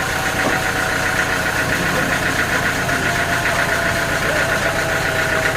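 Engine-driven sawmill machinery running steadily, a continuous mechanical drone with a rapid pulsing buzz.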